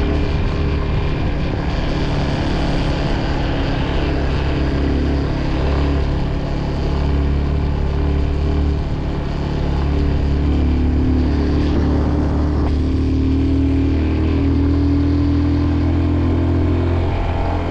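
Motorcycle engine running steadily while riding, with a dense rush of wind noise over it.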